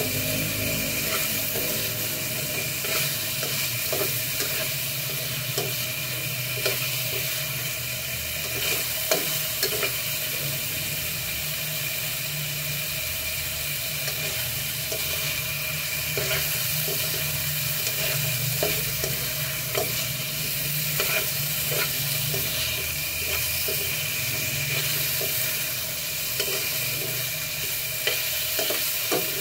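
Chicken pieces and garlic frying in a wok, browning for adobo: a steady sizzle with a spatula scraping and clicking against the pan now and then.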